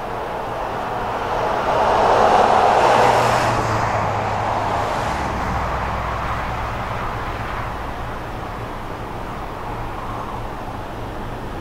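A passing road vehicle's rushing noise swells to its loudest about two seconds in and fades. From about five seconds in, the low, steady drone of approaching BNSF diesel freight locomotives underlies it.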